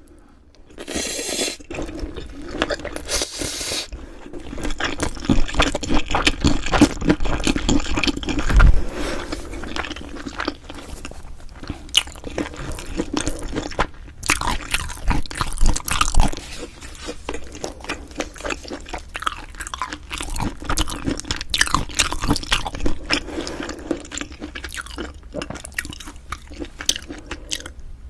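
Close-miked eating: continuous chewing with many small wet clicks and crunches, as in mouth-sound ASMR, with a couple of brief hissy bursts in the first few seconds.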